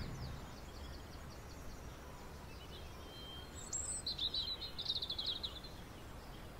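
Faint bird chirps and quick trills, loudest in a short burst about four to five seconds in, over a low steady hum. At the start, the low running rumble of a model goods train fades away as it goes into the tunnel.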